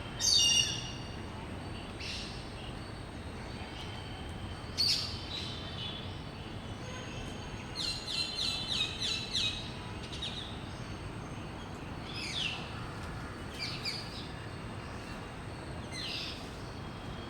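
A bird giving short, high calls at irregular intervals, including a quick run of about five calls in a row near the middle, some of them falling in pitch.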